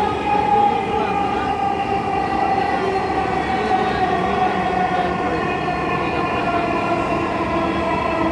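Dhaka Metro Rail (MRT Line 6) train running, heard from inside the carriage: a steady rumble with a whine of several tones from the electric drive, slowly falling in pitch as the train slows toward the next station.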